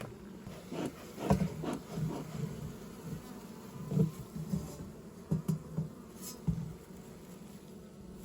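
A swarm of honeybees buzzing around an open hive, a steady low hum. Irregular light knocks and bumps sound through it, the loudest about a second and four seconds in.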